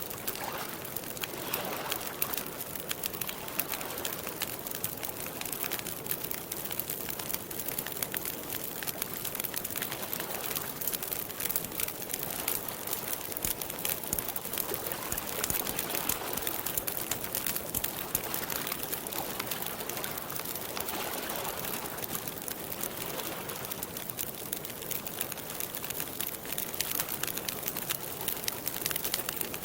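Campfire crackling and popping steadily, with soft bird calls now and then in the background.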